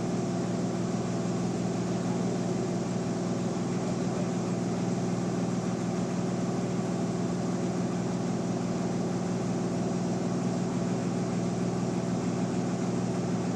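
Bandsaw mill's motor running steadily with a constant low hum, without any change in pitch or load.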